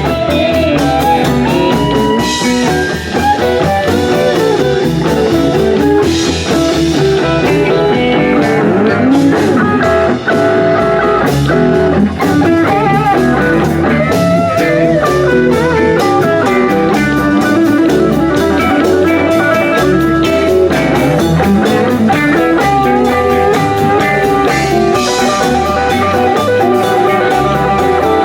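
Blues-rock band playing an instrumental break: electric guitar lead over a stepping bass line and drum kit.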